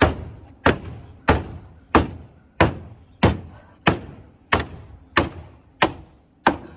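Hammer blows on a car's crash-dented rear body panel, eleven sharp metallic strikes at an even pace of about one and a half a second, each ringing briefly: the bodywork is being banged back out after a collision.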